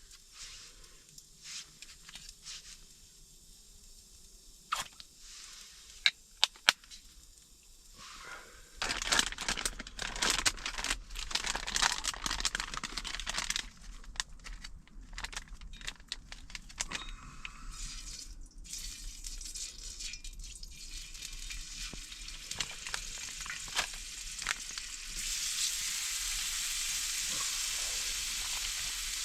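Crinkling and rustling handling sounds with a few sharp clicks, then food starts sizzling steadily in a hot pan about 25 seconds in.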